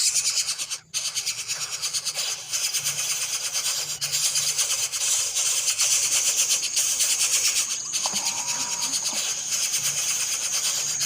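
Bird chicks giving a continuous high, raspy begging chatter made of rapid fine ticks.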